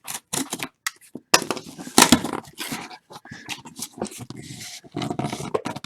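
Irregular rustles, clicks and light knocks of cardboard and packaging being handled, with boxes being moved about in a case of sports-card boxes.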